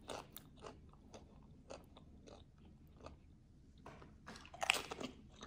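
A dip-coated tortilla chip being bitten and chewed: faint, scattered crunches, with a louder run of crunching near the end.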